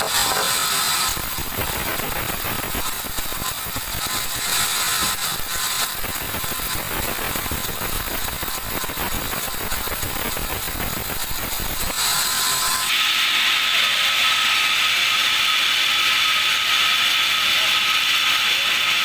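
Large band sawmill running and sawing a teak log: continuous loud mechanical clatter and hiss. About thirteen seconds in, the low rumble drops away and a steadier high hiss with a thin whine takes over.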